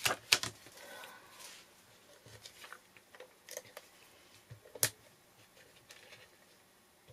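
Paper and craft supplies being handled while glue is put on a card piece: faint rustling and small taps, with a sharp click just after the start and another about five seconds in.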